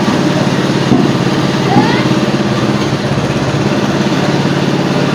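A small engine running steadily at an even speed, with a low steady hum.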